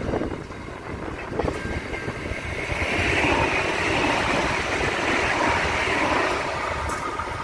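Container freight wagons rolling past with wheel clicks, then from about three seconds in a louder, steady rushing hiss from a suburban electric passenger railcar going by close, easing off near the end.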